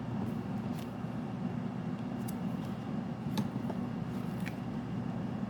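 Tarot cards being handled and drawn from the deck: a few faint, soft clicks spread out over a steady low room hum.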